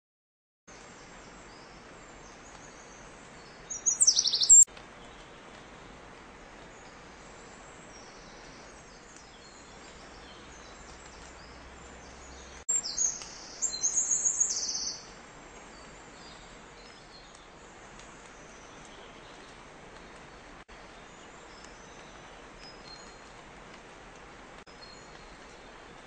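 Songbirds singing over a steady outdoor hiss. Faint high chirps run throughout, with two loud phrases of rapid high notes: a short one about four seconds in and a longer one of about two seconds around thirteen seconds in.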